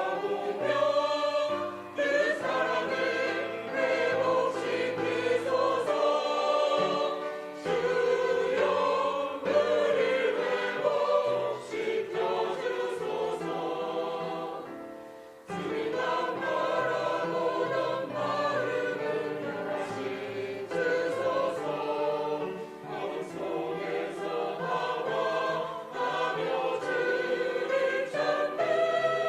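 Church praise team singing a worship song together over instrumental accompaniment, with a short pause between phrases about halfway through.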